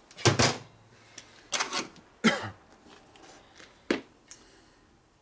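A man's short coughs and breathy grunts, three or four in a row, then a single sharp click of a small metal tool about four seconds in.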